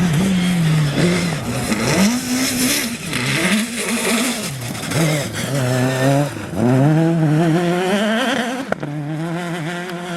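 Rally car engine working hard, its note climbing and dropping again and again as the driver accelerates, lifts and changes gear. A sharp crack comes near the end, where the note falls.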